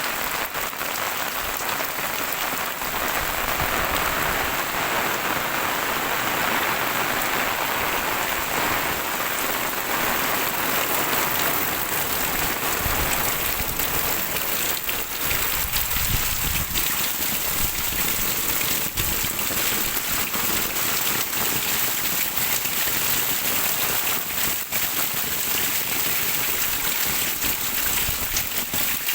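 Very heavy rain pouring steadily, a dense hiss of close drop impacts.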